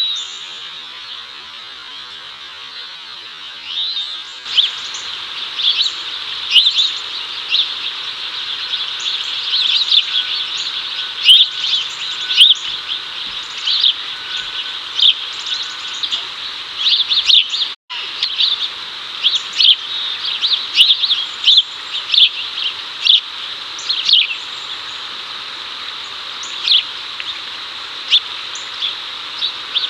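House sparrows chirping: short, sharp chirps repeated at irregular intervals, starting about four seconds in, over a steady background hiss. The repeated chirping is the call a male house sparrow uses to call a female over.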